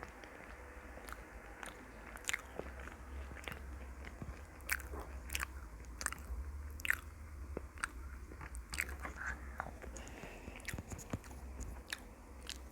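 A person biting and chewing food close to the microphone: irregular sharp, crisp mouth clicks and crunches over a faint steady low hum.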